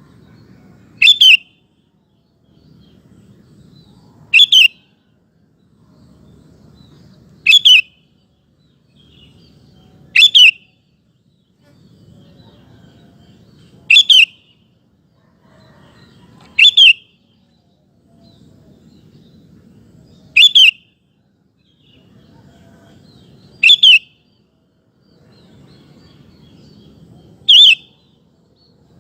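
Sooty-headed bulbul (kutilang) repeating a short, loud, two-part call about every three to four seconds, with a faint low hum between calls.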